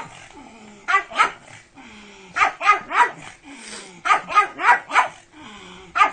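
Pug barking in short runs of two to four quick barks, with brief pauses between the runs.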